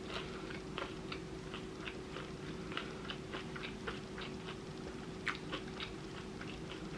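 Close-miked chewing and biting of a toasted ciabatta sandwich: irregular soft crunches and wet mouth clicks, over a faint steady hum.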